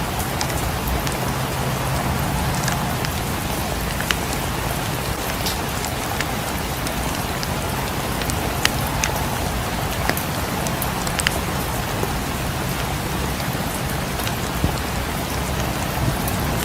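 Steady rain falling, with a fireplace crackling in scattered sharp pops over it.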